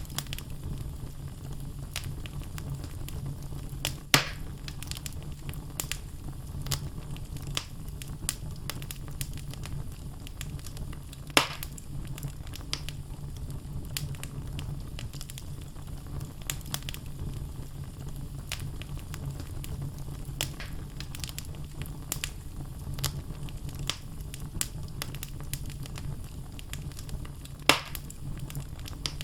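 Wood fire burning in a fireplace: logs crackling with scattered sharp snaps over a steady low rumble of the flames, with three louder pops about four, eleven and twenty-seven seconds in.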